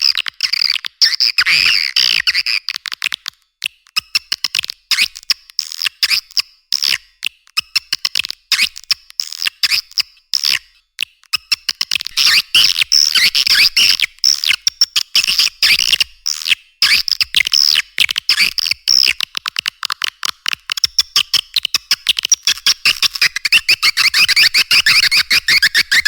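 Swiftlet lure-call recording: a dense, rapid twittering of swiftlet chirps and clicks, played to call swiftlets into a nesting house. It runs on without a break and sounds thin, with nothing in the bass.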